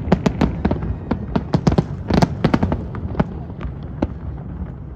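Fireworks exploding overhead: a rapid string of sharp bangs and cracks, thinning out to a few scattered pops over the last couple of seconds.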